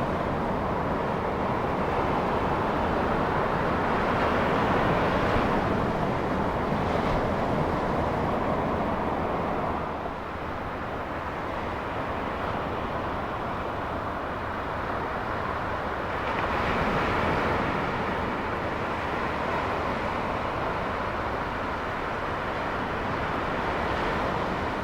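Steady rush of ocean surf and wind at the shoreline, swelling a little twice as waves break.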